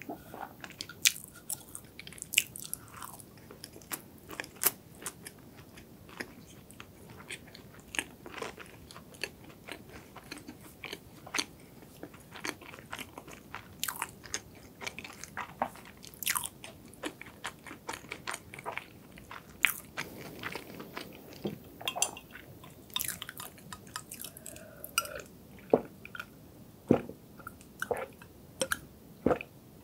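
Close-miked chewing of a chocolate-topped filled donut: soft, moist mouth sounds broken by many irregular crunchy clicks from the topping. Near the end, drinking from a glass.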